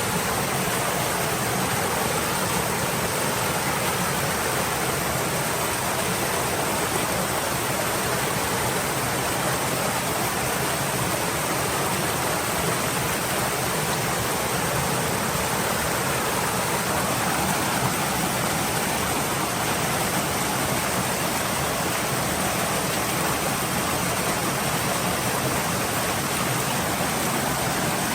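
Stream water flowing steadily, an even rushing hiss.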